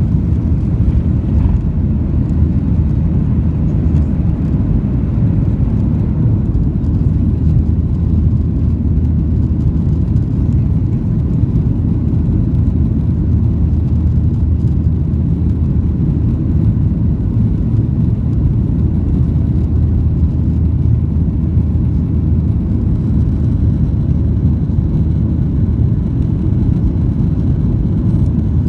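Cabin noise of a Boeing 737-800 in flight, heard from a window seat near the wing: a steady, loud, low rumble from its CFM56-7B jet engines and the airflow, with a constant low hum.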